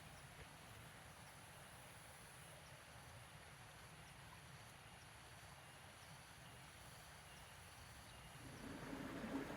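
Near silence: faint outdoor background with a low steady rumble and a few faint high chirps. Near the end a louder rushing noise rises.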